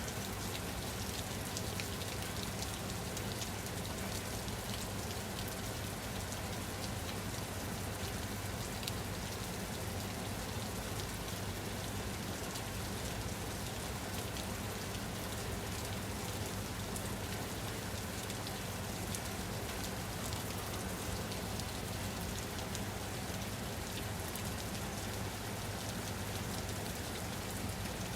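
Steady rain falling, an even hiss with fine scattered drop ticks and a low rumble underneath, unchanging throughout.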